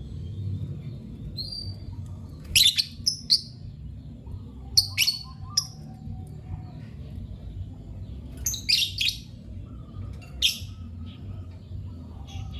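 Lovebird giving short, sharp, shrill chirps in four bursts of two or three calls, a few seconds apart, over a steady low rumble.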